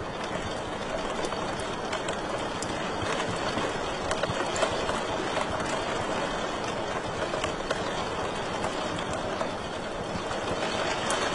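Wood fire crackling in a fireplace: a steady hiss and rush of flames with frequent small sharp pops and snaps, a louder pop about halfway through.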